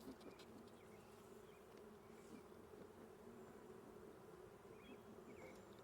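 Faint, steady hum of a honeybee colony buzzing around an opened Layens hive; the bees are stirred up and agitated by the frames being moved.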